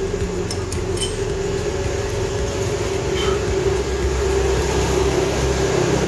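Steady mechanical hum with a few light clicks.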